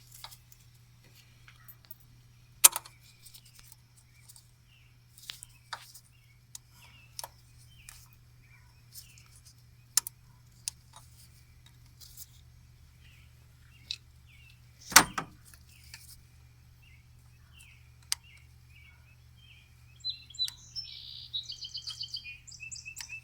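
Scattered sharp clicks and knocks of hand work on hoses, clamps and plastic parts in a car's engine bay, the loudest about two-thirds of the way in. Birds chirp in the background, with a quick run of chirps near the end.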